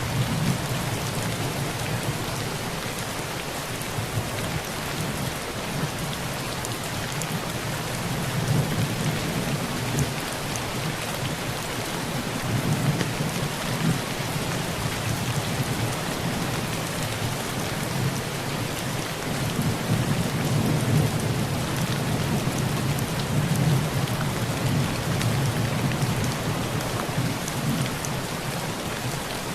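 Heavy rain pelting a tin roof in a steady hiss, under low rolling thunder that swells and fades several times.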